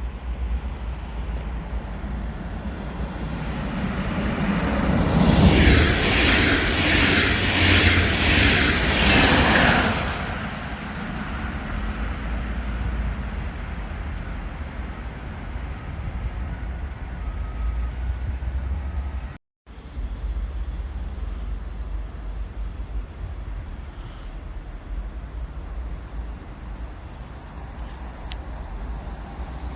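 A train passing through the station: it grows louder from about four seconds in, with a fast, even clatter of wheels for several seconds, then fades, over a steady low rumble.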